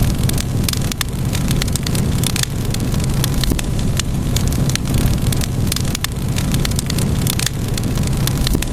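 Crackling wood fire: irregular sharp pops and snaps, several a second, over a steady low rumble.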